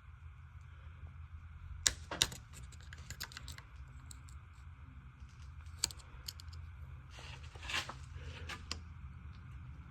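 Light sharp clicks and taps of a pick working the small retaining clip off a transmission cooler line fitting at the radiator, with a short scrape near the end. A steady low hum sits underneath.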